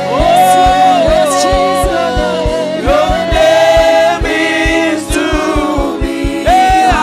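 Gospel worship song: a choir of voices singing over a steady, fast kick-drum beat.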